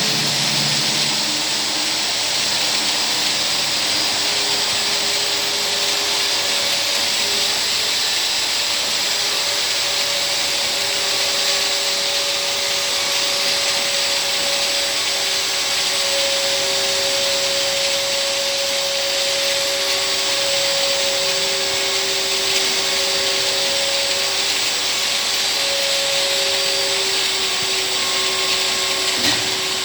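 Rotating ultrasonic vial washing machine running: a steady, even hiss with a pair of held tones from its drive underneath.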